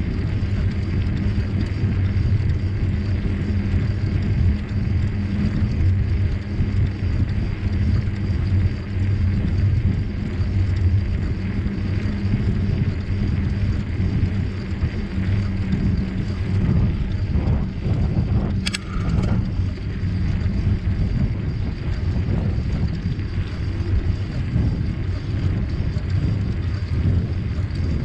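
Bicycle riding along: a steady low rumble of tyres on the trail mixed with wind on the microphone, with one sharp click about two-thirds of the way through.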